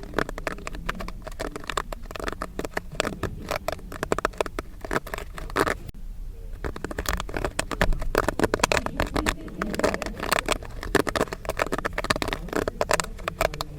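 Popcorn kernels popping rapidly: a dense stream of sharp pops, with a short lull about six seconds in before the popping picks up again.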